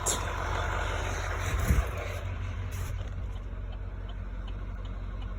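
Steady low rumble of a 6.6-litre Duramax turbo-diesel idling, with a brief thump about a second and a half in.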